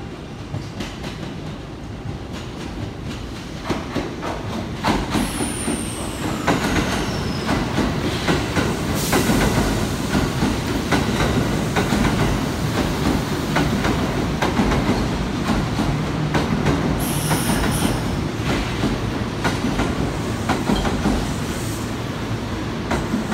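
Electric commuter train running through the station over many sets of points, its wheels clattering over rail joints and crossings, growing louder as it comes alongside. A high wheel squeal falls in pitch about five seconds in, and another short squeal comes near eighteen seconds.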